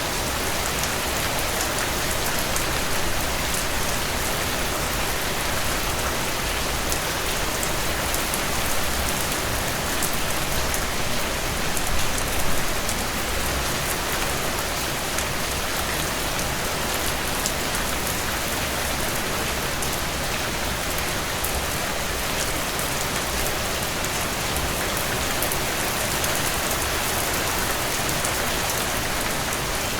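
Steady rain falling, an even hiss with no thunder clap.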